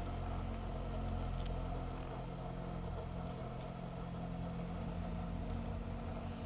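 Steady drone of an aircraft's engine and propeller in flight, a low rumble under several held tones.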